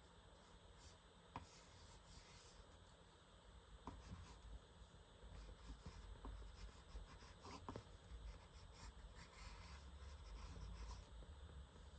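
Faint pen strokes scratching across paper in quick, irregular bursts, with a few soft ticks.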